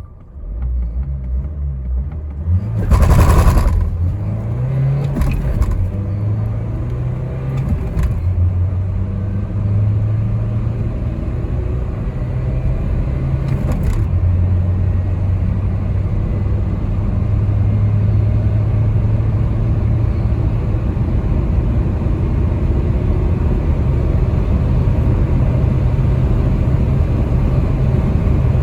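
Renault Trafic III van's 1.6 dCi four-cylinder turbodiesel accelerating hard through the gears of its six-speed manual gearbox. The engine note climbs and falls back at each gear change. A loud burst of noise comes about three seconds in, as the van pulls away.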